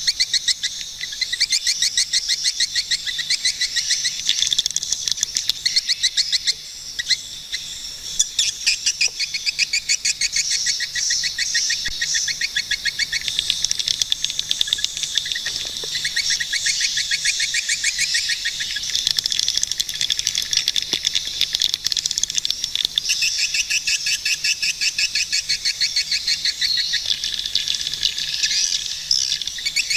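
Swiftlets calling: an unbroken, overlapping twitter of fast, high chirps repeating many times a second.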